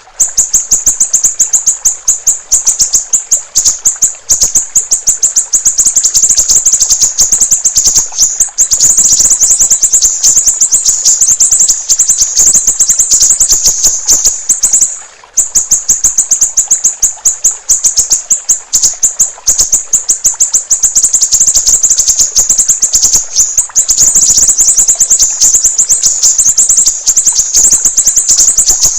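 Siri-siri raja bird singing a rapid, high-pitched chattering trill of fast repeated notes, nearly unbroken, with one brief pause about halfway through. A faint gurgle of water runs beneath it.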